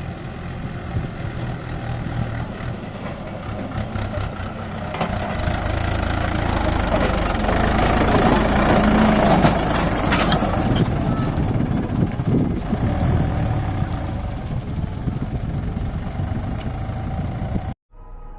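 Diesel tractor engine running steadily, growing louder toward the middle and then easing off. It cuts off suddenly near the end.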